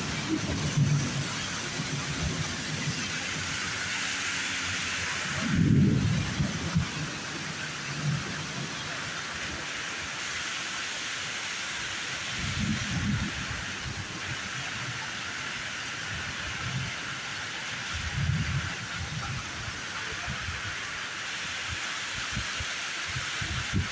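Heavy rain falling in a steady hiss during a severe thunderstorm, with low rumbles swelling up several times; the strongest comes about six seconds in.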